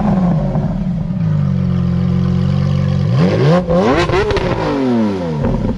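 Lamborghini Aventador SVJ's V12 idling through its Balboni exhaust and blipped twice: one rev falls away at the start, and another rises about three seconds in and drops back to idle.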